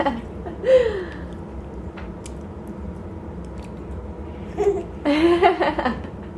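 A woman laughing in a burst about five seconds in, after a short falling vocal sound about a second in.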